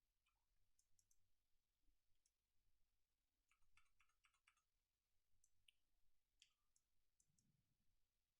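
Near silence with faint, scattered small clicks, a quick run of them about three and a half to four and a half seconds in: game pieces being picked up and set down on a board.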